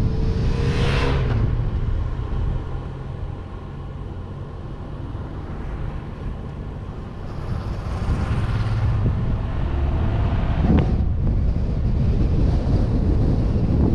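A car driving on a mountain road: steady engine hum and road and wind rumble. There are two louder whooshing swells, about a second in and about eight seconds in.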